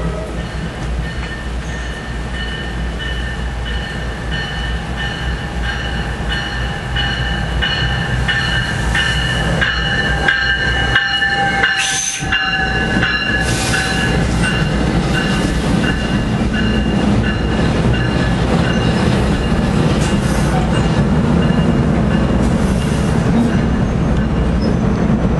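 Commuter train passing, with a low rumble and steel wheels squealing in several long high tones, strongest around the middle.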